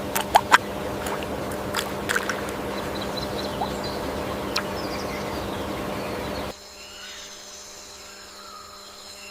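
Outdoor nature ambience: a steady noise bed with several sharp knocks in the first couple of seconds. About six and a half seconds in it cuts to a quieter ambience with a faint steady high drone and a few faint chirps.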